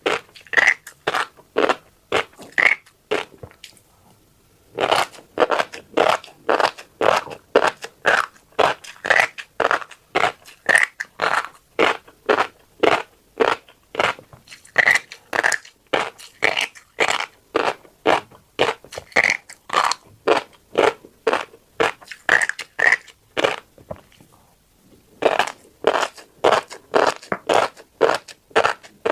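Close-miked chewing of tiny crunchy black seeds, a quick run of crunches at about three a second, pausing briefly twice.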